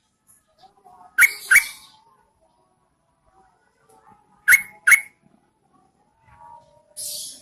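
Yellow-vented bulbul calling, as a female calls to draw in males: a pair of sharp notes about a second in and another pair about four and a half seconds in, with softer notes between them and a short harsh rasp near the end.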